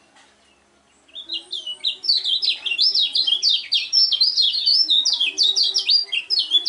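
Kecial kuning, a white-eye songbird, singing a fast unbroken string of quick, high, sliding notes that starts about a second in.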